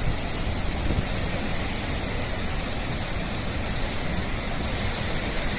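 Floodwater released through the Srisailam dam's spillway gates, rushing and crashing in a steady, unbroken noise.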